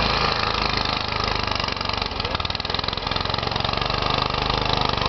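Snow blower's small gasoline engine running steadily.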